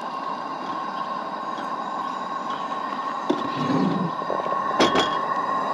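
Steady hiss of a pan of black beans cooking over a camp stove, with a couple of sharp clicks about five seconds in.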